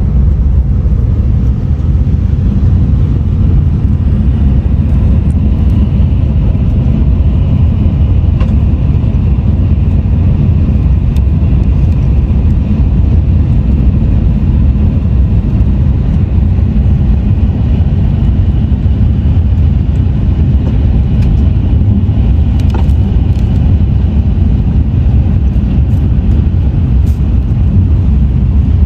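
Bullet train running at speed, heard inside the passenger cabin: a steady low rumble with a faint higher hiss and a few faint clicks.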